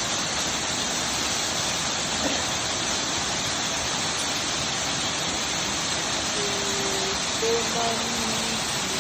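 Waterfall cascading over rock tiers: a steady, even rush of falling water. A person's voice is heard briefly near the end.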